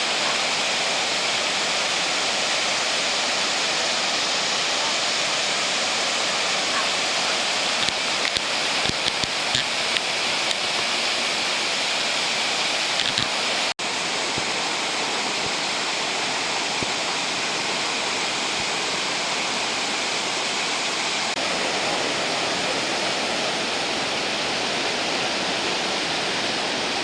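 Steady rush of water at Fukiware Falls, a dense even noise with no pause except a brief break about halfway through.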